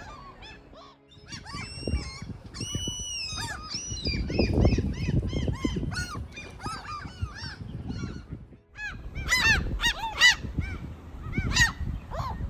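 A flock of great black-backed gulls calling over one another: many short, overlapping cries, with a few longer held calls about two to three seconds in. Strong wind rumbles on the microphone underneath, swelling at times.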